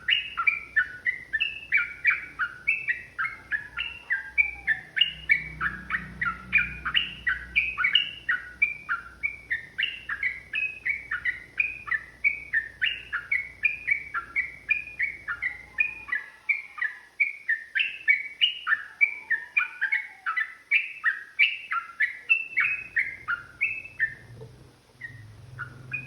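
Yellow-vented bulbul (trucukan) singing a long, unbroken run of quick, sweeping chattering notes, about three a second, that stops shortly before the end.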